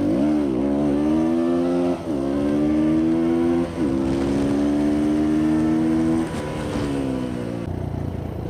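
Motorcycle engine accelerating through the gears while riding: the pitch climbs and drops sharply at upshifts about two and four seconds in, holds steady, then falls away as the throttle eases off near the end.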